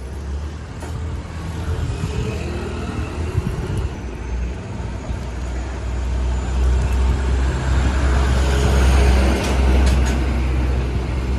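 Street traffic: a heavy road vehicle passing close by, its low engine rumble and tyre noise building to a peak about nine seconds in and then easing.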